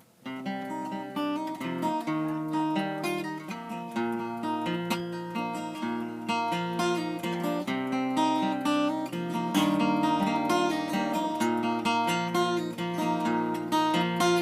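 Acoustic guitar playing an instrumental introduction, strummed chords with frequent strokes, starting just after the beginning.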